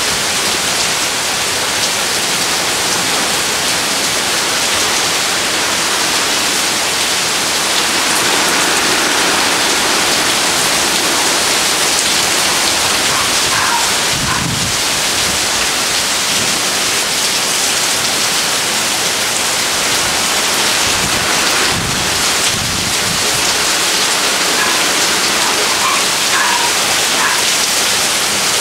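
Heavy thunderstorm downpour: rain pouring steadily and hissing on pavement, roofs, and cars. Two brief low rumbles of thunder come about halfway through and again some seconds later.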